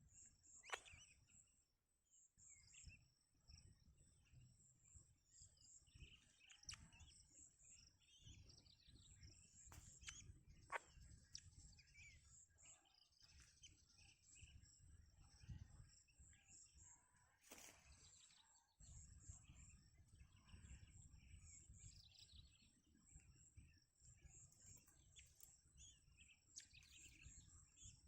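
Faint outdoor ambience: scattered short bird chirps and calls over a low rumble, with a few sharp clicks.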